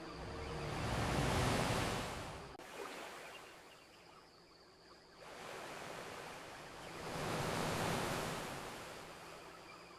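Ocean waves breaking and washing up a beach, twice: one wave swells and falls away in the first few seconds, and a second surges up and recedes near the end.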